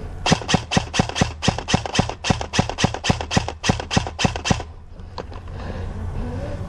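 Airsoft gun firing a rapid string of about twenty shots, about five a second, which stops about four and a half seconds in.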